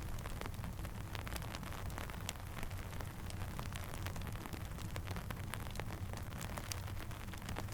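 Steady rain mixed with a crackling campfire: an even hiss over a constant low rumble, with frequent sharp pops and ticks scattered throughout.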